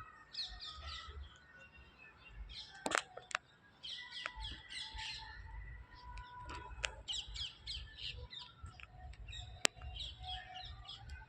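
Birds chirping in repeated quick series of short high notes, with a few sharp clicks or taps, the loudest about three seconds in and again near the end.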